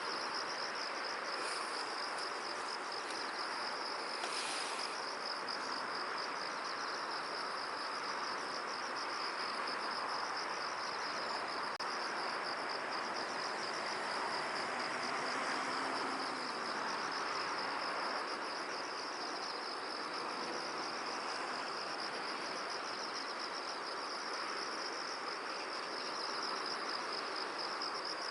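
Field insects such as crickets chirring without a break in a fast, even, high-pitched pulsing trill, over a soft, steady rush of wind. A couple of faint, brief higher chirps come a second or two in and again around four seconds in.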